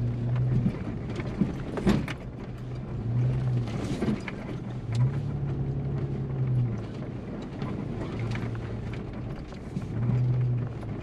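Four-wheel-drive vehicle driving slowly on a dirt track, its engine a steady low drone that swells and eases, with a couple of sharp knocks from the vehicle jolting over the track.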